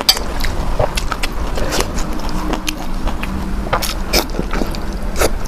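Close-miked eating sounds: a mouth chewing, with a run of short, sharp wet clicks and smacks.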